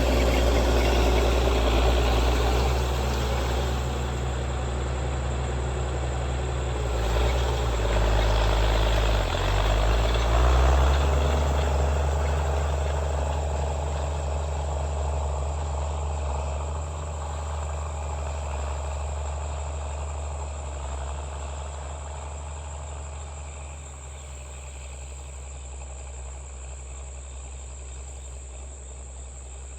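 Allis-Chalmers D17 tractor engine running steadily, its pitch shifting between about seven and eleven seconds in, then growing gradually fainter over the second half. A steady high cricket trill runs underneath.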